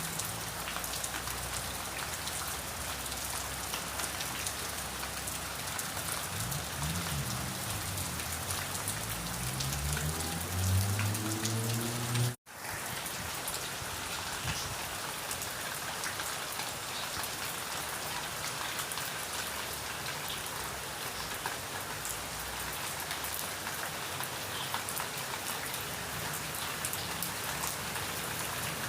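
Steady rain falling on a surface, an even hiss of drops. About six seconds in a low hum starts rising in pitch and grows louder, then cuts off abruptly in a split-second dropout, after which only the rain continues.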